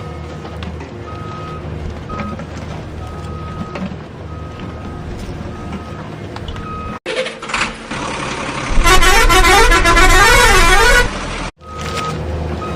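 Toy construction vehicles' electronic sound effects: a repeated high beeping over a steady low motor hum, broken about seven seconds in by a loud warbling horn-like tone that sweeps up and down for about two seconds before the beeping and hum return.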